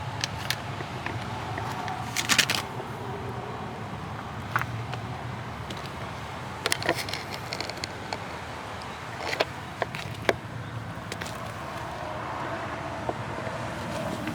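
An all-terrain vehicle's engine running with a steady low drone, broken by scattered sharp knocks and rattles, the loudest about two seconds in and again around seven and ten seconds.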